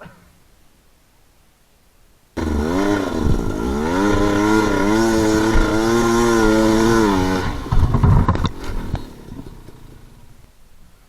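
Dirt bike engine revving hard, starting suddenly about two seconds in, rising then wavering in pitch for about five seconds. It breaks off into a short clattering noise and then fades away.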